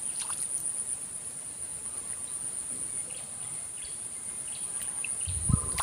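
Steady high-pitched insect buzzing, with a few faint bird chirps and a low thump near the end.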